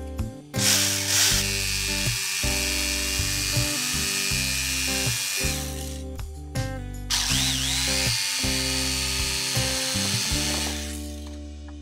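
An electric power tool runs twice, about five seconds and then about four seconds, over background music. Its motor pitch swings briefly as the second run starts.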